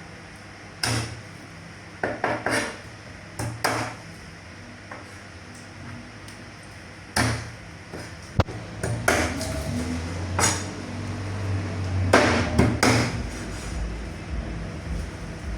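A series of irregular sharp knocks and clatters, about a dozen, some in quick pairs, over a low hum that grows louder from about halfway through.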